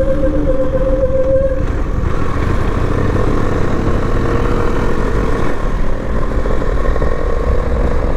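Bajaj Dominar 400 motorcycle ridden at road speed: a steady rush of wind and road noise with a running engine tone that dips slightly in pitch about two seconds in.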